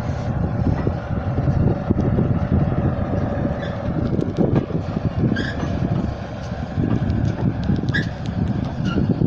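Moving railway carriage: a steady low rumble of the wheels on the track, with irregular knocks and wind buffeting the microphone. A few short high squeaks come through in the second half.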